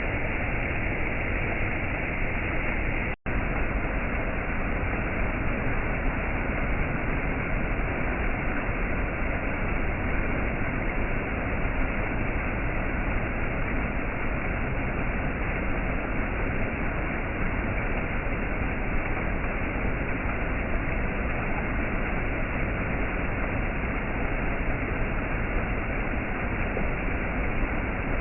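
Waterfall: a steady, even rush of falling water, with a momentary dropout to silence about three seconds in.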